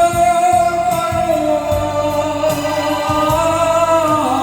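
A singer holds one long note with vibrato, the pitch stepping down near the end, over a song's backing track with a steady drum beat.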